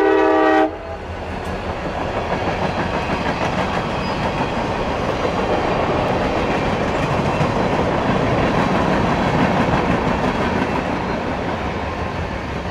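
A train's multi-tone horn sounds briefly and cuts off sharply, then a passing train gives a steady rushing rumble that builds toward the middle and eases off near the end.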